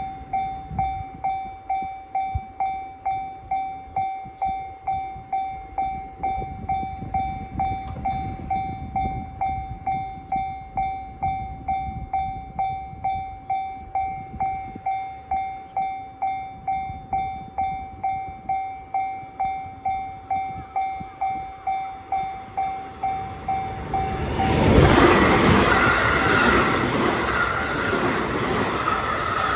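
Level-crossing warning bell ringing about twice a second, then, after about 24 seconds, a DE10 diesel-hydraulic locomotive hauling two loaded Chiki flatcars passes close by, its engine and wheels loud enough to drown out the bell.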